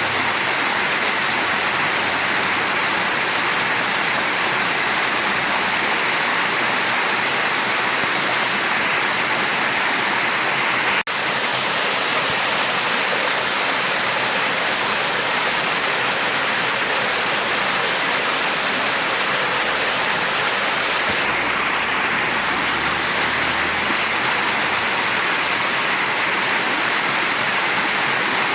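Mountain stream rushing steadily over rocks. There is a brief click-like break in the flow about eleven seconds in.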